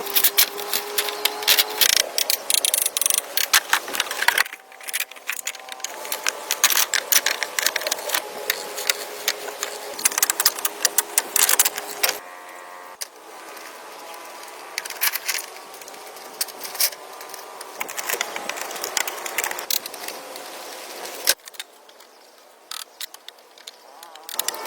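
Irregular runs of sharp clicks and knocks, thinning out about three seconds before the end, with faint steady tones beneath them.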